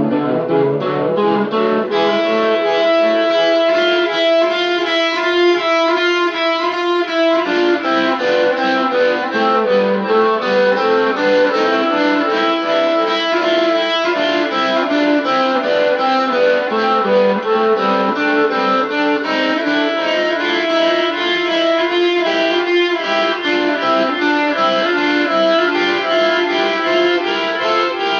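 Instrumental rock solo led by a guitar, with quick runs of notes over a few held tones.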